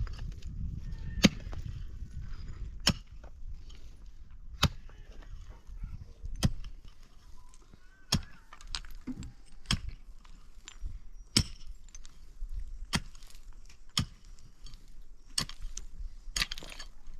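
Repeated sharp knocks or blows, about one every second and a half.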